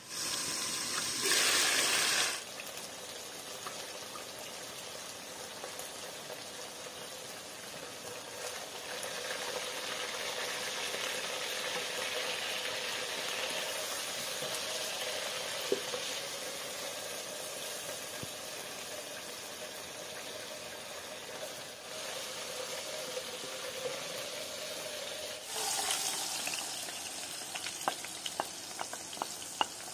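Chicken pieces frying in hot oil in a pan, a steady sizzle, with a louder burst about a second in. Near the end the sizzle grows louder as grated onion goes into the oil, with a few sharp taps of a wooden spatula.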